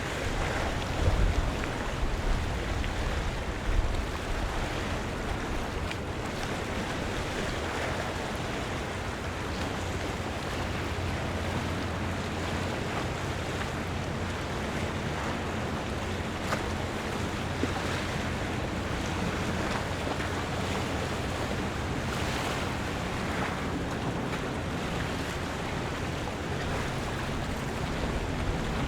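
Harbour waterfront ambience: water washing and lapping in a steady wash of noise, under a faint steady low hum. Wind buffets the microphone in the first few seconds.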